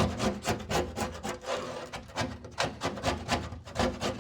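Rapid, rhythmic back-and-forth scraping, about five strokes a second, during work on a stripped Volkswagen chassis.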